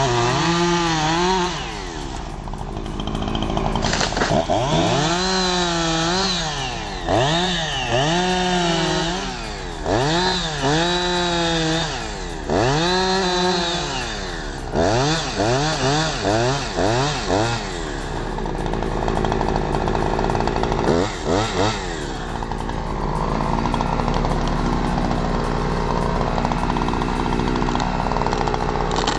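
Chainsaw revving up and down again and again, about once a second, through the first half or so. In the last third it runs more evenly.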